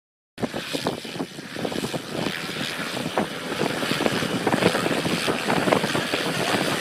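Propeller aircraft running, a dense noisy drone with rapid crackle, cutting in suddenly from silence and growing louder.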